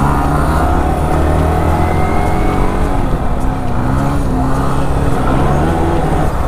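Motorcycle engine revving hard and held at high revs, its pitch wavering up and down, as the bike is pulled up into a wheelie.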